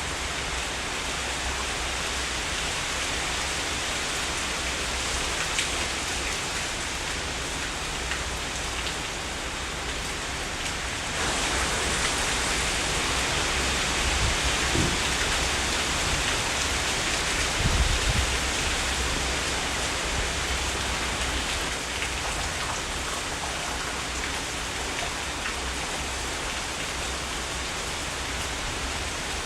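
Heavy rain falling steadily, growing heavier about eleven seconds in, with a couple of brief low rumbles near the middle.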